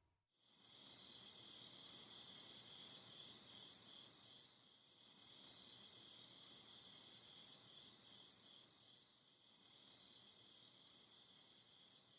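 Insects chirping in a steady high trill with fast, even pulses, cricket-like.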